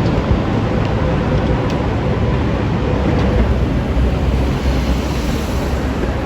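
Loud city street traffic: vehicles running past with a deep, steady rumble and a faint steady whine that fades out about halfway through.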